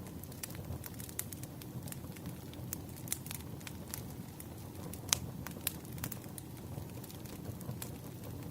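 Wood campfire burning, its logs crackling with irregular sharp pops, one louder pop about five seconds in, over a steady low rush of the flames.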